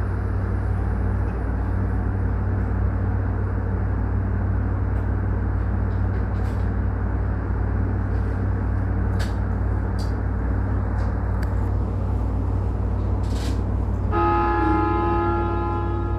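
JR Yokosuka Line electric train running, heard on board as a steady low rumble with a few scattered clicks. About two seconds before the end, the train's horn sounds and holds to the end.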